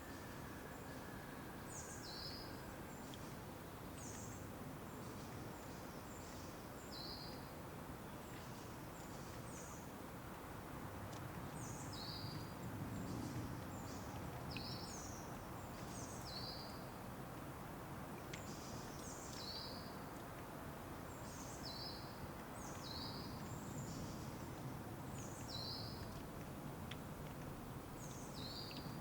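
A songbird repeatedly gives a short, high two-part call, a higher note dropping to a lower one, about every one to two seconds, over a steady low rush of outdoor background noise.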